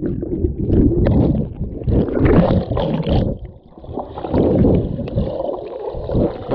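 Muffled, uneven rumble of sea water sloshing and gurgling around a waterproof camera held in the water.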